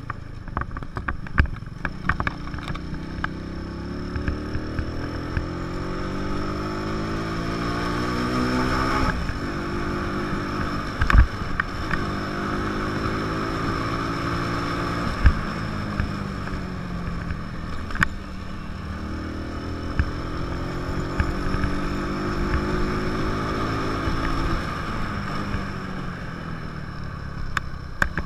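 150 cc motorcycle engine pulling in a low gear: its pitch climbs steadily as it accelerates, falls back, and climbs again three times. A few sharp knocks stand out over it.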